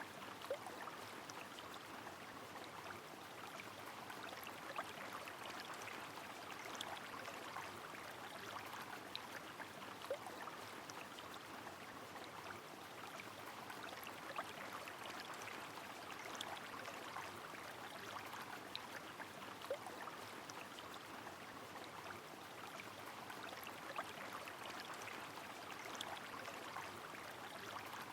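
Steady hiss of rain and flowing river water, with scattered drop ticks and an occasional short water plink.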